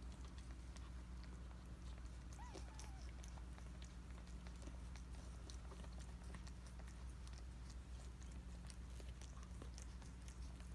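Faint, wet licking and chewing sounds from a mother cat during birth, small clicks over a steady low hum, with one brief high squeak about two and a half seconds in.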